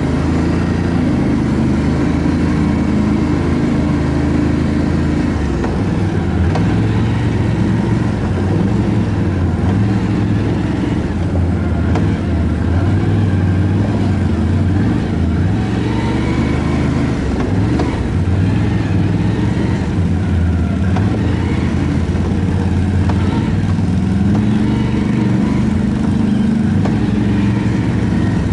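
ATV engine running steadily under way, its pitch shifting up and down with the throttle, with a rise near the end.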